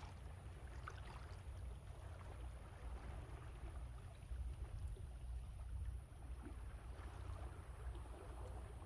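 Sea waves washing ashore, with strong wind buffeting the microphone in an uneven low rumble.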